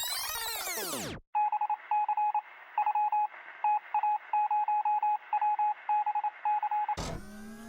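A single-pitch electronic beep keyed on and off in short and long pulses like Morse code, over a faint radio-like hiss. It follows the tail of a sweeping synthesizer whoosh that dies away in the first second. Near the end a different whirring sound with a rising pitch cuts in.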